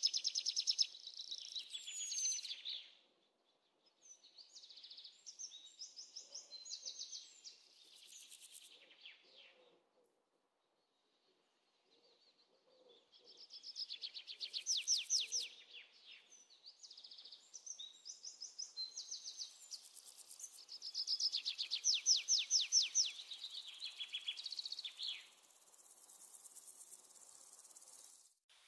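Small birds singing in rapid high chirping trills, phrase after phrase, with short pauses between the bursts.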